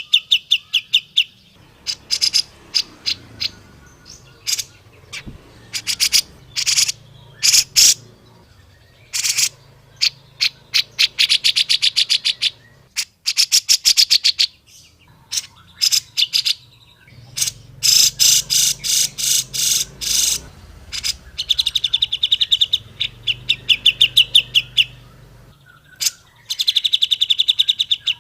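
Grey-cheeked bulbul (cucak jenggot) calling. It gives bursts of fast, rapidly repeated, high-pitched chattering notes, each burst lasting one to three seconds, with single sharp notes in between.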